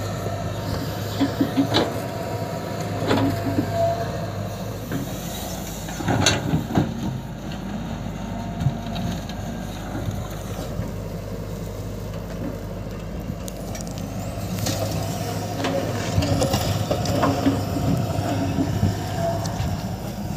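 Diesel engines of an excavator and a tractor running steadily, with several knocks and thuds as the excavator bucket loads mud into the tractor's tipper trolley.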